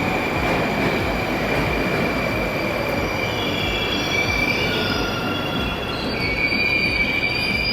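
Moscow Metro train running on the line, with a steady noise of wheels on rail and a constant high tone. About halfway through, high metallic wheel squeal sets in, several pitches at once, growing stronger towards the end.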